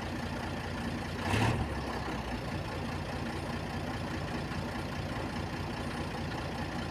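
Truck engine running steadily, with one brief louder burst of noise about a second and a half in.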